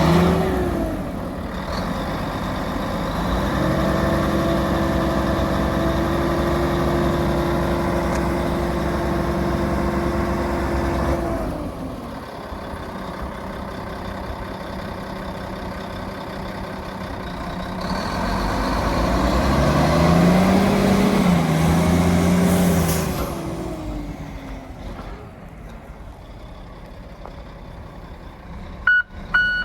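2005 Volvo A40D articulated dump truck's six-cylinder diesel engine running, revved up and held twice for several seconds each time before dropping back to idle. A short hiss comes as the revs drop the second time, and steady beeping starts near the end.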